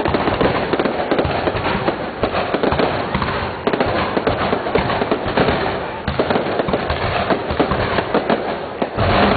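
Fireworks display: a continuous rapid barrage of bangs and crackling from aerial shells bursting overhead.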